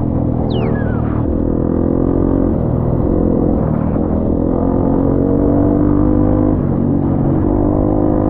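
Off-road vehicle engine running on the trail, its pitch shifting a little with the throttle, with a short falling squeal about half a second in.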